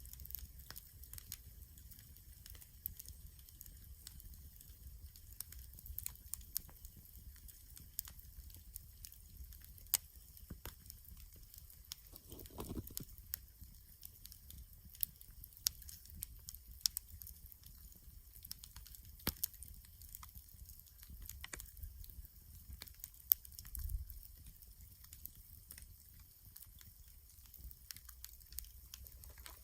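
Wood campfire crackling, with scattered sharp pops and snaps over a faint low rumble.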